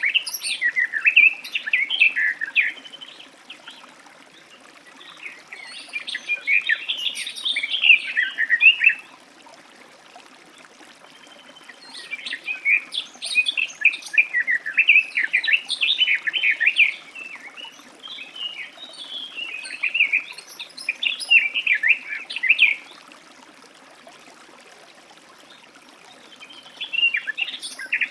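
Garden warbler singing: long, fast, rich warbling phrases of several seconds each, repeated in about five bouts with pauses of a few seconds between them, the last one starting near the end.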